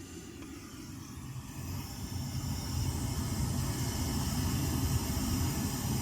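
Pink-noise test signal played through home-cinema speakers, heard as a steady rushing hiss weighted toward the low end. It grows louder from about one second in and holds steady from about three seconds.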